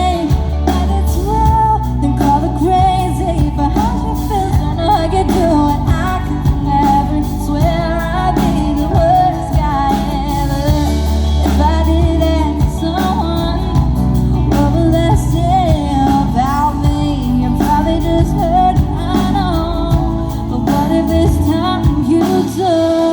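Live country-pop band playing: drums, bass and guitars under a wavering lead vocal line with no clear words.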